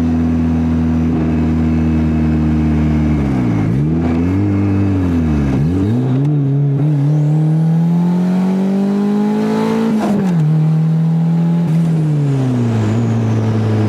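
Car engine heard from inside the cabin. It runs steadily, its note dips and picks back up twice, then revs up for about four seconds before dropping sharply at a gear change, and steps down once more near the end.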